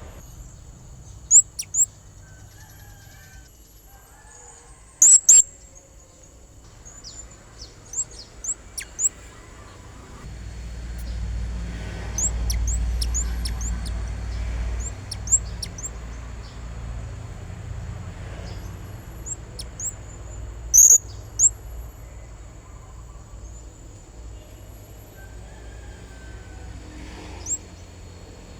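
Blue-crowned hanging parrot (serindit) giving short, sharp, high-pitched chirps, singly and in quick clusters of two or three, used as a lure call to draw rival birds. A low rumble rises for several seconds midway.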